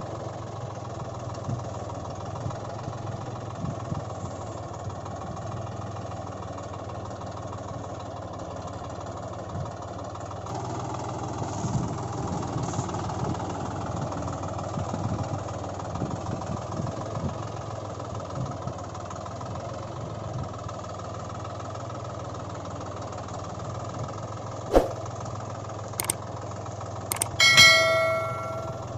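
Vehicle engine idling steadily, with two sharp clicks near the end and a short pitched, horn-like tone just before the end.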